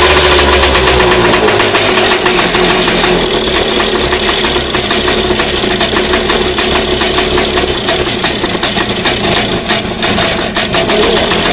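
Air-cooled Volvo Penta Model 39 two-stroke outboard engine running steadily with a fast, even firing rhythm, just after a cold start with the choke pulled. It dips briefly near the end, then picks up again.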